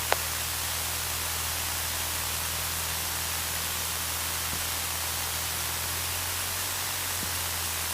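Steady hiss of a light aircraft's intercom and radio audio, with the Cessna 152's four-cylinder Lycoming engine idling as a low, even hum underneath. A single click just after the start, as the push-to-talk is released.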